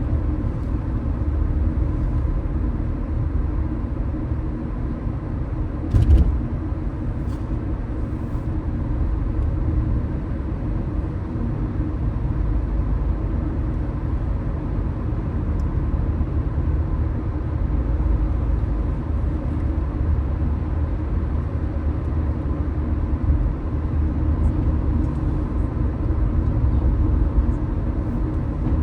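Car driving on city streets: a steady low rumble of engine and road noise, with a single brief thump about six seconds in.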